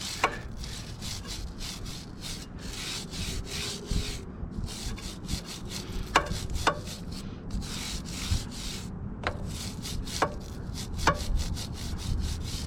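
Motorcycle chain being scrubbed: quick, repeated rubbing strokes, with a few sharp clicks from the chain links along the way.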